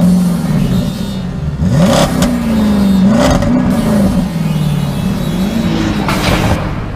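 Car engine revving: its pitch rises and falls several times, with a few short rushes of noise.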